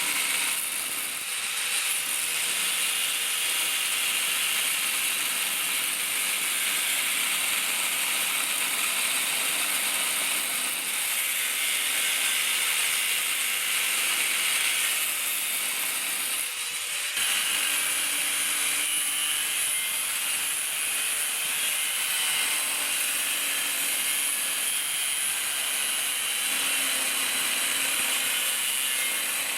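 A power tool cutting steadily through the rusty steel of a Land Rover Discovery 2's chassis leg, a continuous harsh, high-pitched rasp with two brief dips.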